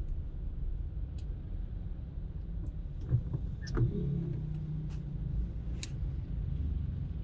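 Steady low rumble of a car driving in traffic, with a few brief clicks about three to six seconds in.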